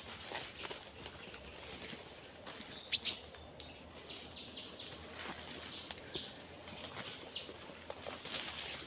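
Forest insects keep up a steady, high-pitched drone. Two quick, sharp sounds come about three seconds in.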